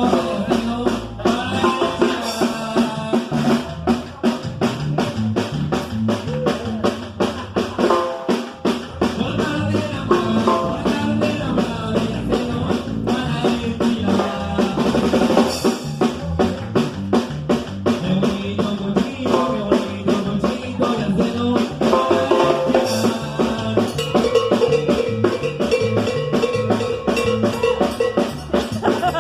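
Norteño band music with a steady drum-kit beat and a bass line stepping between notes.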